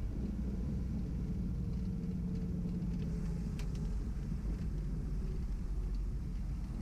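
Twin piston engines of a Beechcraft Baron B55 running at low taxi power after landing: a steady low drone with no change in pitch.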